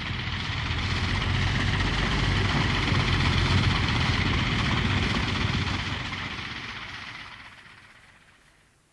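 Bristol Fighter's V12 Rolls-Royce aero engine running with a steady drone. It builds slightly, then fades away over the last few seconds.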